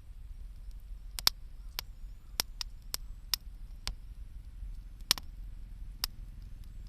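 Wood bonfire crackling: about ten sharp, irregular pops and snaps over a steady low rumble.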